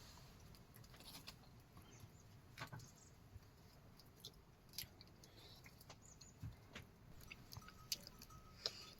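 Faint eating sounds at a meal: chewing and small scattered clicks, very quiet overall.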